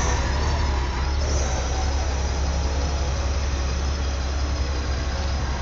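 Honda Gold Wing touring motorcycle's horizontally opposed engine idling steadily, with a deep low hum and street noise around it.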